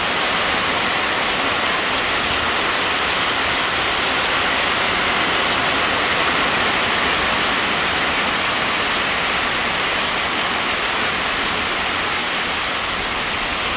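Heavy rain pouring down in a steady, loud rush, with water streaming off the roof edge.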